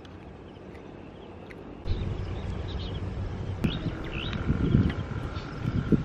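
Small birds chirping in short, quick calls over a low rumble of outdoor noise; the sound steps up in level about two seconds in.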